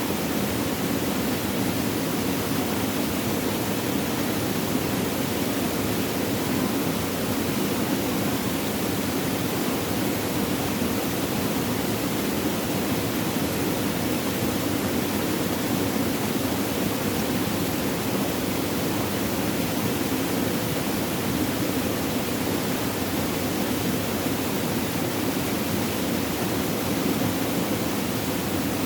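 Flowing water, a steady even rush of running water with no breaks or changes.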